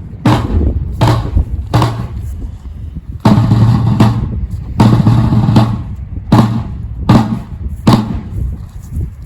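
A drum beaten in a slow, steady cadence, about one stroke every three-quarters of a second, with wind rumbling on the microphone.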